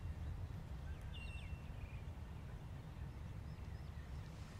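Quiet outdoor ambience: a steady low rumble, with a bird giving a short chirping call about a second in and fainter chirps later.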